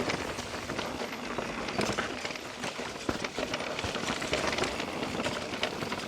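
Mountain bike riding over a root-covered trail: tyres on dirt under a steady run of small knocks, clicks and rattles from the bike as it hits roots.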